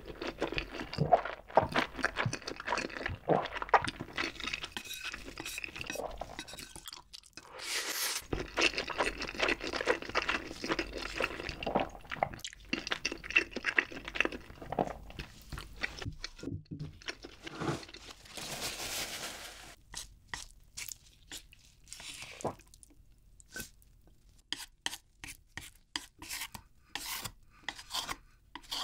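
Close-miked chewing of a big mouthful of creamy spicy instant noodles: wet, smacking mouth sounds in two long spells, then a quieter stretch with scattered small clicks in the last few seconds.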